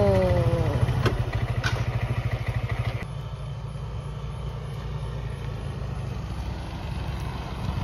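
Small motor scooter engine running with a steady low putter. About three seconds in it drops abruptly to a quieter, steadier running sound.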